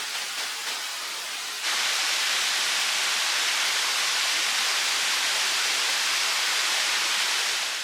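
Running water rushing steadily. About a second and a half in it switches abruptly to a louder, brighter rush that then holds steady.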